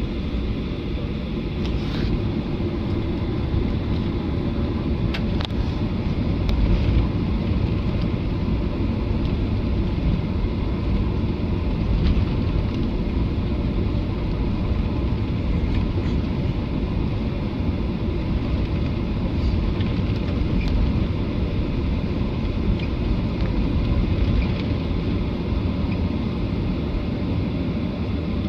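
Airliner cabin noise: the jet engines and airflow make a steady low rumble with hiss, and a few faint clicks and creaks from the cabin come through it.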